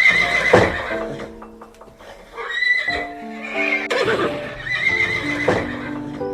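An animal calling four times, each call a loud rising-and-falling cry, over background music with steady notes.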